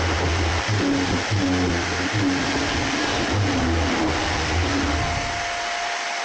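Makita BO5031 random orbital sander with 80-grit paper sanding bare wood, a shop vac attached for dust collection running with it. About five seconds in the rumble of the pad on the wood stops and the sander runs free with a steady whine.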